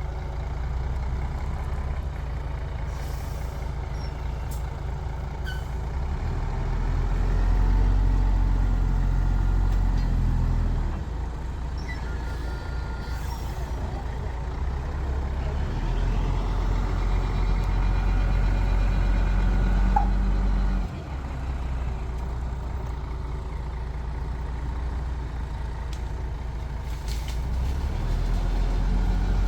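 Heavy diesel engines of earthmoving machinery working. The engine note swells under load and drops back several times: louder from about 7 to 11 seconds in, again from about 16 to 21 seconds with a sudden drop, and again near the end.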